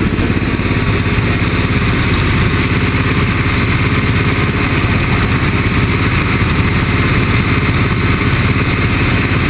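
1978 Chrysler Cordoba's V8 engine idling steadily, having just caught after a hard start.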